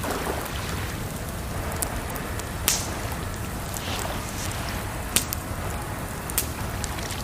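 Campfire crackling, with a few sharp pops from the burning wood, over a steady rush of water.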